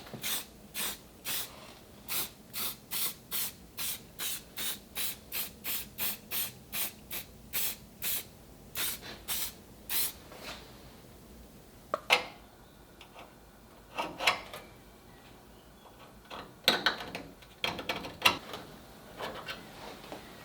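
Quick, even rasping strokes of a hand tool worked over sheet metal, about two and a half strokes a second, stopping about ten seconds in. Then a handful of sharp metallic knocks, the loudest sounds here, some with a short ring.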